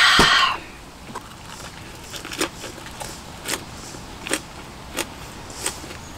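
A loud breathy exhale after a gulp of beer, with a knock as the glass is set down on the table. Then a big mouthful of food is chewed, with short soft crunches about once a second.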